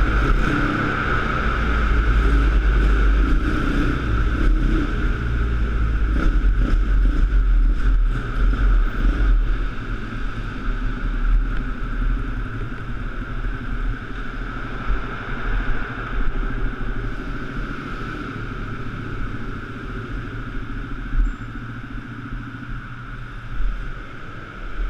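Pit bike engine running steadily, louder for the first ten seconds or so and then settling lower.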